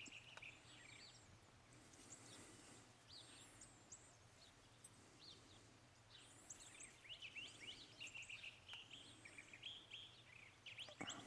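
Faint small birds chirping and calling in short, quick notes, busier in the second half, over a quiet outdoor hiss.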